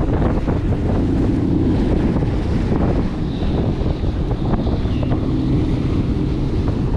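Jet ski engine running steadily under way on the water, with heavy wind buffeting the microphone.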